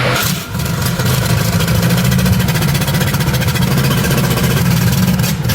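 Excavator's diesel engine running steadily, with a fast, even firing rhythm.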